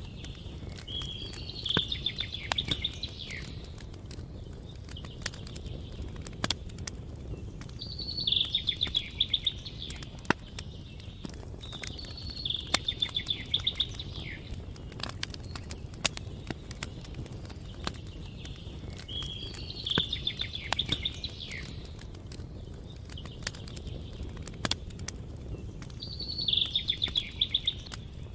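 A songbird singing the same short trilled phrase five times, several seconds apart, over scattered sharp crackles of a campfire and a steady low rumble.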